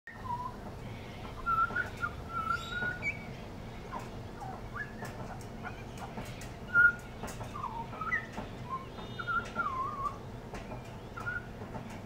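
Pied butcherbird singing short, clear whistled notes in a loose, unhurried phrase, some notes sliding up or down, over the steady low hum of a washing machine running. A single louder knock comes about seven seconds in.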